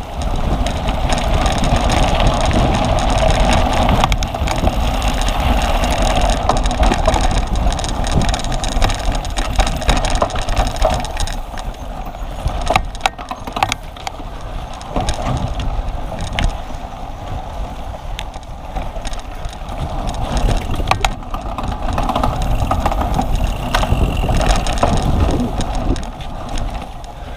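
Cyclocross bike being ridden, with wind rushing and buffeting the microphone and rumbling tyres over rough ground. There are a few sharp clicks and rattles about halfway through.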